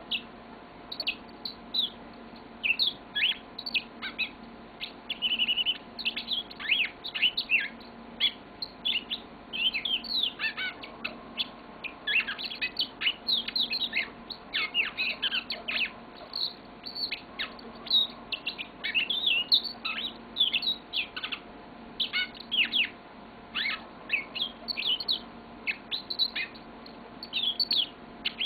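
Pet yellow-fronted canary singing a long, continuous song of rapid high chirps and trills, with only brief pauses.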